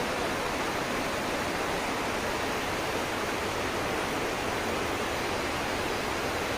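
Steady, even rushing noise with no change and no separate events.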